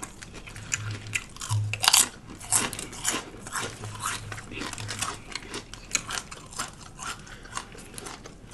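Close-miked chewing and crunching of a lettuce-wrapped Italian sub with cold cuts and pickles: irregular wet crackles and crunches of mouthfuls being chewed.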